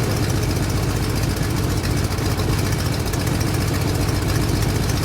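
Motorcycle engine idling with a steady, fast low-pitched pulse.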